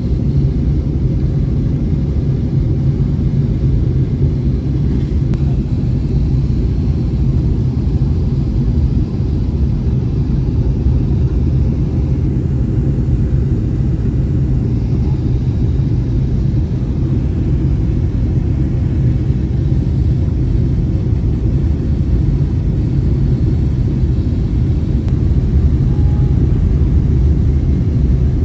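Steady low rumble of engine and airflow noise inside the cabin of an Airbus A320-family airliner in flight.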